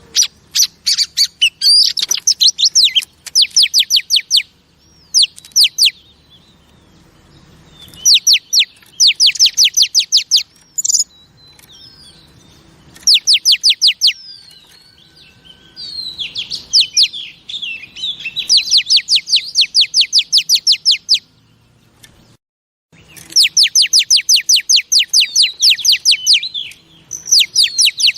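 Female oriental magpie-robin calling in bouts of rapid, sharply repeated notes, each bout one to five seconds long with short pauses between them.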